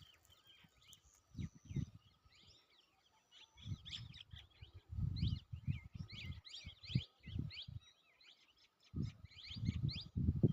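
Many small birds chirping and twittering in quick, short calls throughout, over irregular low rumbling thuds that come and go and are the loudest thing heard.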